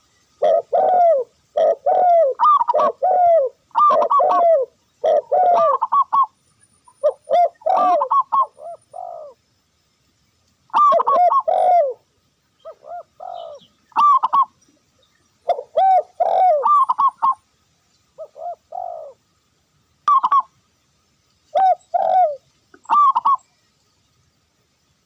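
Doves cooing loudly and close by in repeated phrases of several soft, rounded notes, each phrase followed by a short pause.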